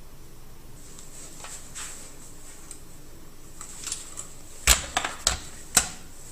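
A few faint clicks, then four sharp clicks or knocks in quick succession near the end.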